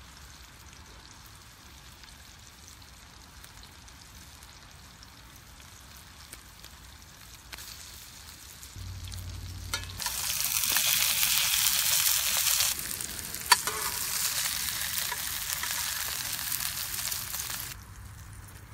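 Breaded rockfish pieces frying in oil in a cast-iron skillet: a quieter sizzle for the first several seconds, then a loud, steady hiss of frying from about ten seconds in. Partway through there is a single sharp click of the metal spatula against the pan, and the sizzle drops away near the end.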